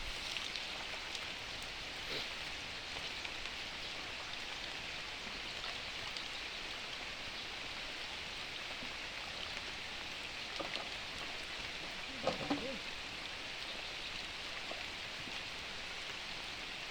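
Steady rain falling, an even hiss that does not let up, with a brief faint voice about twelve seconds in.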